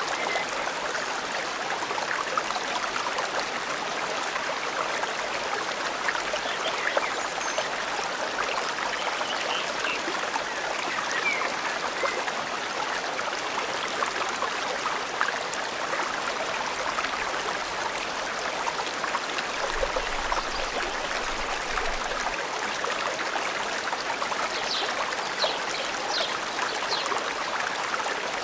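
River water flowing steadily through a forest, a constant even trickling rush, with a few faint short high bird chirps near the end.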